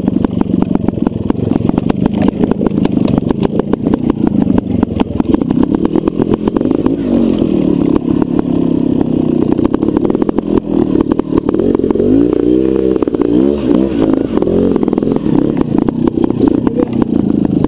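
Trials motorcycle engine running at low revs as the bike picks its way through a section, with a few quick throttle blips, rising and falling in pitch, about twelve seconds in.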